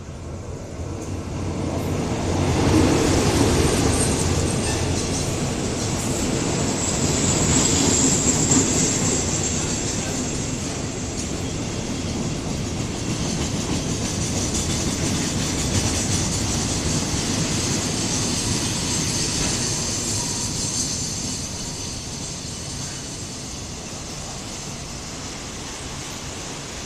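A diesel-hauled freight train of boxcars rolls past at close range, with wheels clattering on the rails and a high squeal from the wheels. It is loudest a few seconds in and again around eight seconds, then eases off toward the end as the last coach goes by.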